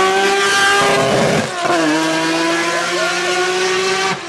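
Rally car engine at high revs, near-steady in pitch. About a second and a half in the pitch drops sharply and briefly before holding steady again.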